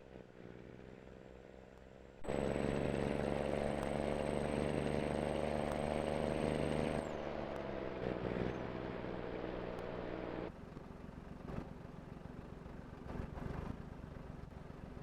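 Scania diesel engine running under way with a steady note. It gets suddenly louder about two seconds in. About seven seconds in the pitch drops as the engine slows, and it settles to a quieter rumble near the last third.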